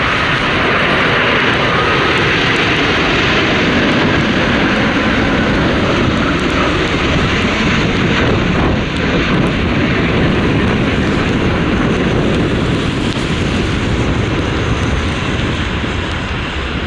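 A jet airliner flying past on its landing approach: a loud, steady engine rush, with a whine sliding down in pitch in the first couple of seconds as it goes by.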